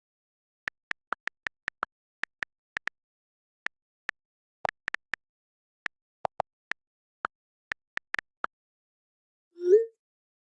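Phone keypad being pressed over and over at an uneven pace, about two dozen short key blips in answer to the robocall's prompt. Near the end there is one brief, louder sound that rises in pitch.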